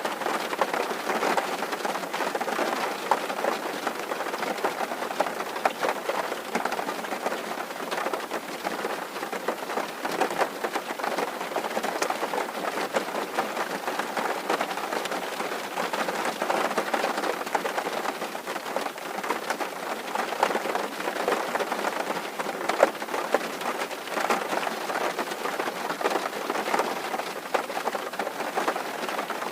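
Steady rain drumming on a tin roof: a dense, even patter of countless drops ticking on the metal.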